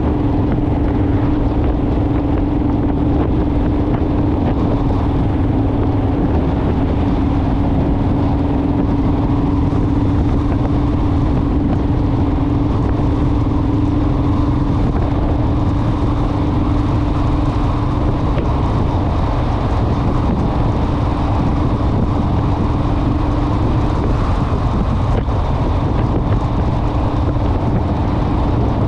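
Motorcycle engine running at a steady cruising speed, with wind and road noise rushing over the microphone while riding.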